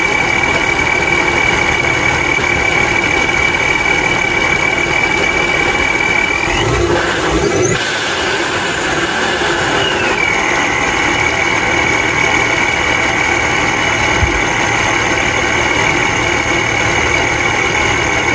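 Ripp-supercharged Chrysler 3.6 V6 idling with the supercharger's steady high whine, freshly refitted with a new blow-off valve o-ring. About six seconds in the revs rise briefly and the whine climbs, then settles back to its idle pitch around ten seconds in.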